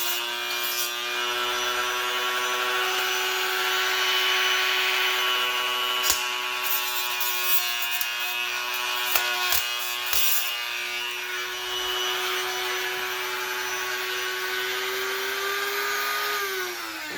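Die grinder with a stone running at a steady high whine while deburring the edges of a Cometic multi-layer steel head gasket, with scratchy grinding and a few clicks as it works the metal. Near the end it is released and spins down, its pitch falling away.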